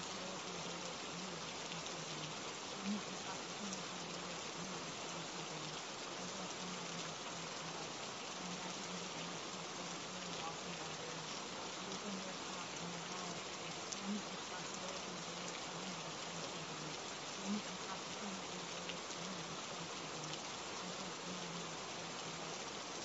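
Steady rain falling, an even hiss of drops, with a low hum wavering underneath that swells briefly a few times.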